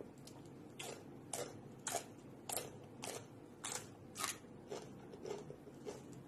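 Crunchy chewing of raw green vegetable stalks close to the mic, about ten sharp crunches roughly every half second.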